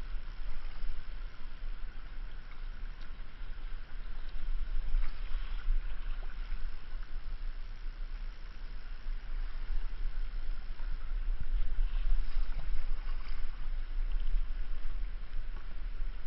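Steady rush of river water around a kayak, with a low wind rumble on the microphone and a few faint ticks.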